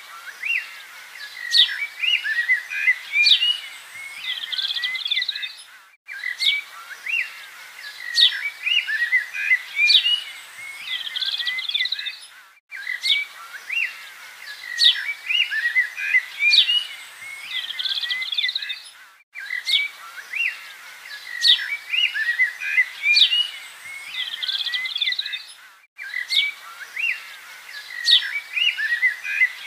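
Small birds chirping and tweeting, with quick high rising whistles. It is a short recording on a loop: the same stretch of chirps repeats about every six and a half seconds, with a brief dropout between repeats.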